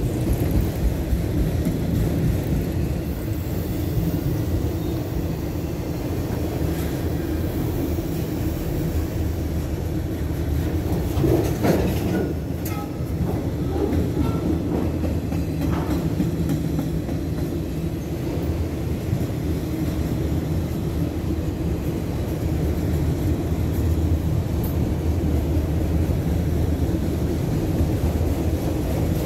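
Norfolk Southern freight train's autorack cars rolling past, a steady low rumble of steel wheels on rail. A few short squeaks stand out about twelve seconds in.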